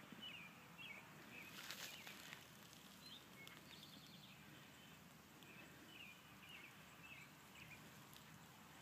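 Near silence: faint open-air ambience with a small bird chirping again and again, and a brief rustle just under two seconds in.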